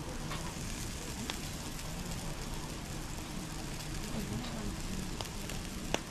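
Firewood campfire crackling: scattered sharp pops and snaps over a steady hiss, with one louder pop near the end.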